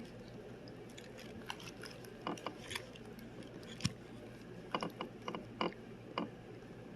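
Light, irregular clicks and taps of a spoon against a small tuna can and a cracker as tuna salad is scooped and spread.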